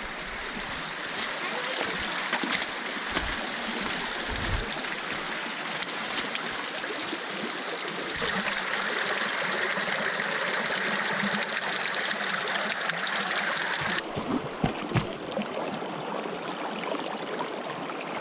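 Running water of a stream, a steady rushing that shifts abruptly in tone about 8 and 14 seconds in, with a few low thumps.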